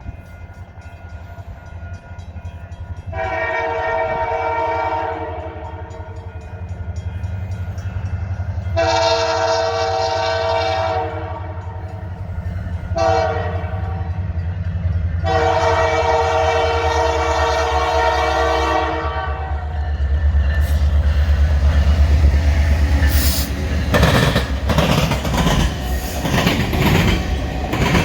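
CPKC Holiday Train's diesel locomotive sounding its horn in the grade-crossing pattern: long, long, short, long. Under it the engine's low rumble builds as the train comes in, and near the end it passes with a rapid clatter of wheels over the rails.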